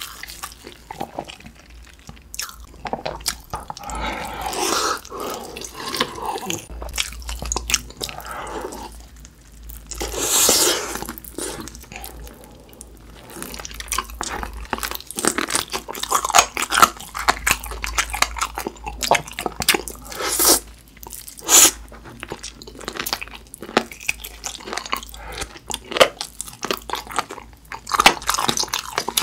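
Close-miked biting and chewing of crisp fried chicken drumsticks coated in sticky yangnyeom sauce: irregular crunches of the fried coating and chewing, with a loud crunchy bite about ten seconds in.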